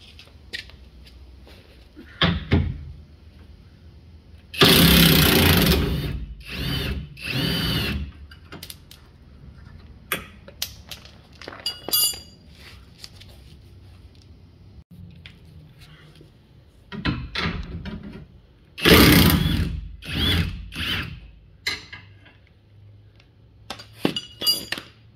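Hercules Ultra Torque 20V 1/2-inch cordless impact wrench hammering in several short bursts on a rusty bolt, the longest about a second and a half, with clinks and clicks between the bursts.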